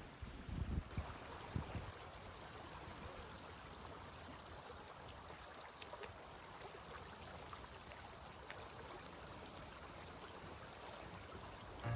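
River water flowing steadily, with a few low rumbles of wind on the microphone in the first two seconds.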